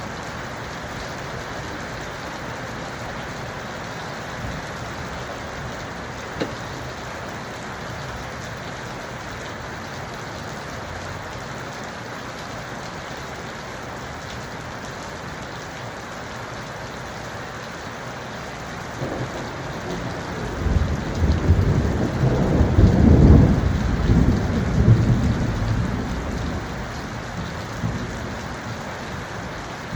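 Steady rain falling, with a long rolling rumble of thunder that swells in about two-thirds of the way through, peaks, and dies away near the end.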